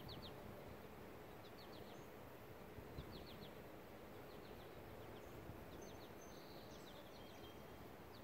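Near silence: quiet outdoor air with a bird's short high chirps, given in quick runs of three or four every second or two.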